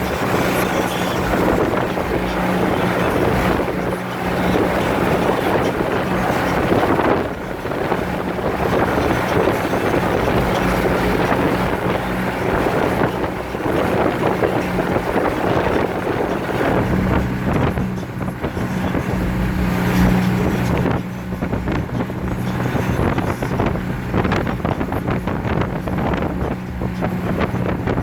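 Wind buffeting the microphone, with a steady low engine drone from a vessel underneath.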